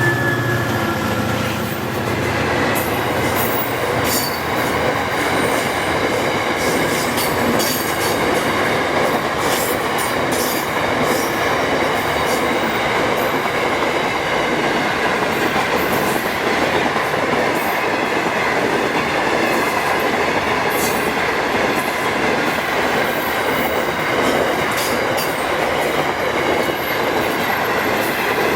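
Loaded freight wagons rolling steadily past on the rails: a continuous rumble with irregular clicks and clunks of wheels over rail joints. A low hum fades away in the first couple of seconds.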